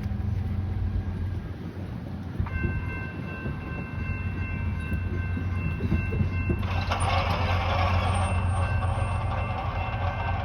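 A train's locomotive rumbling steadily. About two and a half seconds in, its horn sounds a held chord, and from about seven seconds a louder rushing noise joins as the train draws closer.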